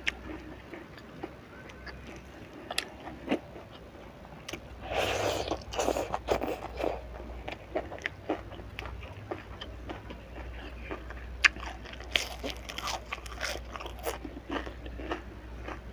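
Close-miked chewing and crunching of crispy fried sepat fish, eaten by hand: irregular crisp cracks and mouth sounds, busiest about five to seven seconds in, with one sharp louder crack a little past the middle.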